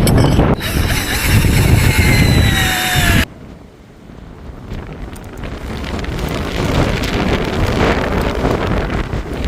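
Strong wind buffeting the microphone. For the first three seconds it is a loud rush with a faint, slowly falling whine, which cuts off abruptly; then gusty wind noise builds again.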